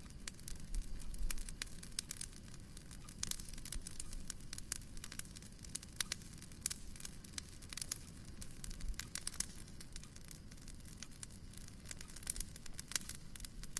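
Wood fire crackling in a fireplace: irregular snaps and pops over a low, steady rumble of the flames.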